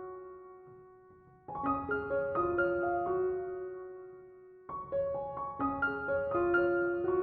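Background piano music: short phrases of notes, each struck and left to ring and fade, with a fresh phrase starting about a second and a half in and another a little under five seconds in.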